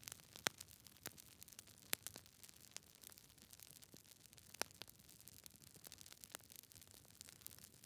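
Logs burning in a fireplace, crackling with irregular sharp pops and snaps over a soft low hiss of the fire. The loudest pops come about half a second and two seconds in.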